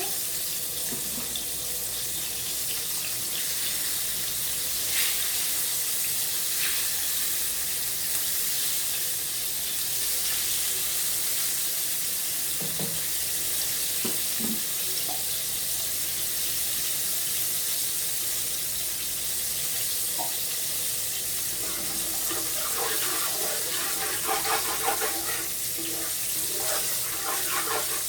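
Kitchen tap running with a steady hiss of water, with clinks and knocks of dishes or utensils, busiest in the last few seconds.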